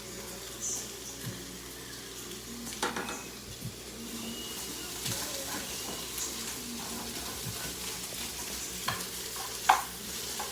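Food sizzling as it fries in oil in a pan, with a utensil stirring and scraping against the pan and a few sharp clicks, the loudest one near the end.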